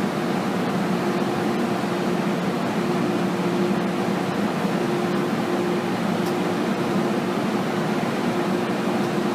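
Steady interior running noise of an MTR M-Train passenger car, an even rumble with a faint hum that comes and goes.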